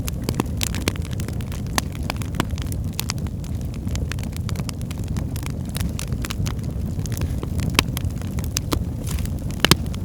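Wood fire burning in a fireplace: a steady low rumble of flames with frequent irregular sharp crackles and pops, a couple of louder pops near the end.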